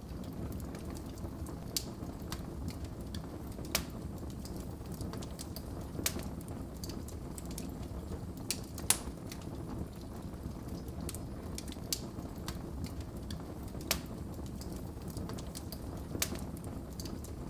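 Wood fire crackling in a fireplace: a steady low rush of burning logs with sharp pops every second or two, the loudest about nine seconds in.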